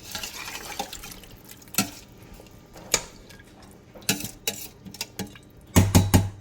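Water poured into a cooking pot of rice, then kitchen utensils knocking and clinking against the pot several times, with a quick run of three louder knocks near the end.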